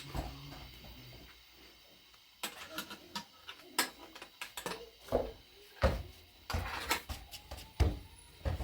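Irregular knocks and clatter of kitchen things being handled, starting about two seconds in, with a few louder thuds near the end.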